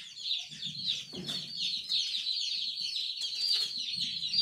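A brooder full of day-old chicks, mostly Cornish Rock cross broilers, peeping continuously, many high, short, downward-falling peeps overlapping at once, with faint rustling about a second in.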